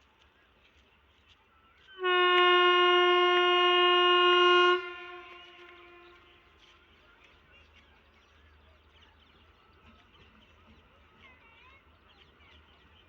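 Train horn sounding one long steady blast of about three seconds, starting about two seconds in and cutting off sharply, its echo dying away after it. Faint bird chirps can be heard in the quiet on either side.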